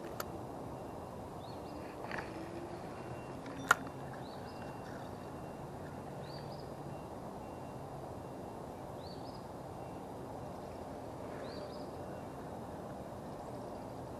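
Outdoor creek-side background: a bird repeats a short rising call every second and a half or so over a steady low hiss. A sharp click sounds about four seconds in, with a smaller one at the very start, from the spinning reel being handled.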